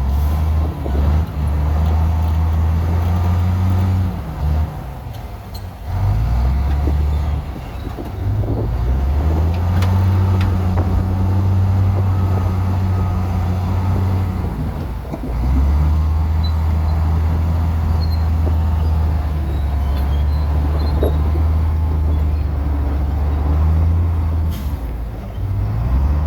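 Bulldozer's heavy diesel engine running under load, its pitch dropping and climbing back several times as the revs change, with a brief lull about five seconds in.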